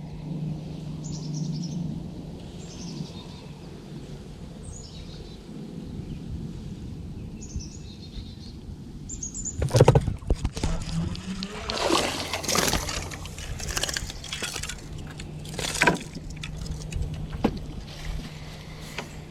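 A bird calls in short high chirps about every two seconds over a steady low hum. About halfway through, a run of loud knocks, clacks and rattles starts, like gear being handled, and goes on in bursts to the end.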